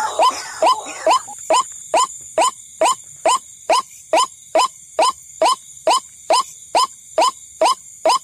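White-breasted waterhen (ruak-ruak) lure call: one short note repeated evenly, a little over twice a second. In the first second the notes come faster and overlap before settling into the steady beat, with a faint steady high whine underneath.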